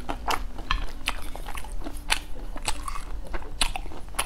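A person chewing and biting into a crisp pan-fried bun topped with sesame seeds: a string of short, irregular crunches and crackles.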